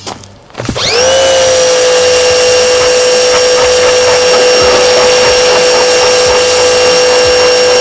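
Small Harbor Freight electric pressure washer starting up under a second in with a quick rising whine, then running at a steady pitch as its jet sprays with a loud hiss.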